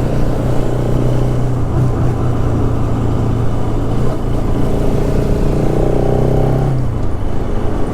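Bajaj Pulsar motorcycle engine running at a steady cruise over wind and road noise. Its note grows stronger a few seconds in, then drops away near the end.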